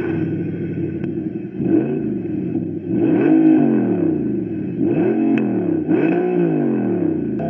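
Small electric motors of 1/43 scale slot cars whining as the cars run laps. The pitch rises and falls again and again, about every second and a half, as the cars speed up, pass by and slow down.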